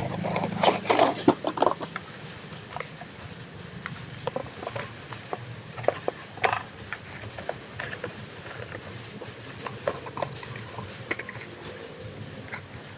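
Scattered clicks, taps and light rustles of a toy and its packaging being handled, with a short burst of crackling about a second in.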